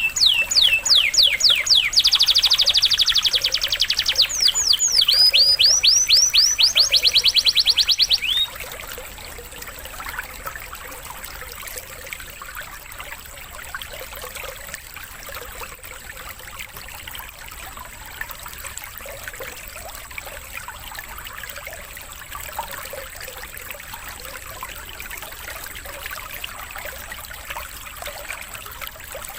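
Canary singing a fast run of evenly repeated down-sweeping whistled notes, which stops abruptly about eight seconds in. Trickling water runs underneath and continues alone afterwards.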